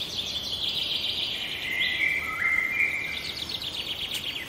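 Birds chirping and whistling: high steady notes that jump abruptly in pitch, followed by a fast trill in the last second and a half.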